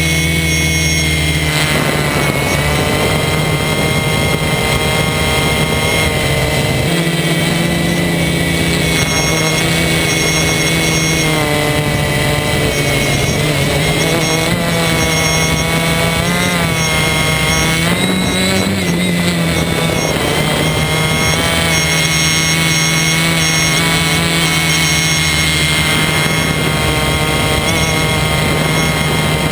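DJI Flame Wheel 450 multirotor drone's electric motors and propellers whining steadily in flight, the pitch wavering as the throttle changes, most around the middle.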